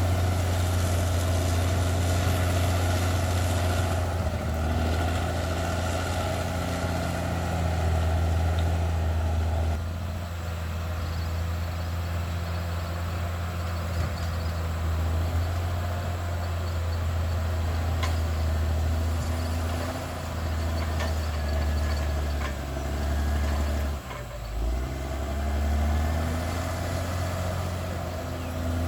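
Caterpillar D6R XL bulldozer's diesel engine running with a deep, steady drone that shifts in level several times as the load changes, dipping briefly about three quarters of the way through.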